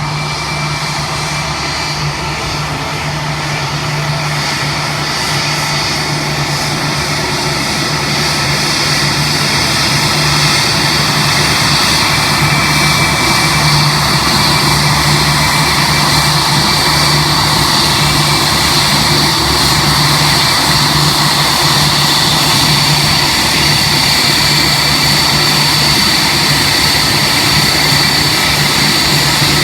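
Aircraft engine running steadily, a constant low hum under a high whine, growing louder over the first ten seconds or so and then holding level.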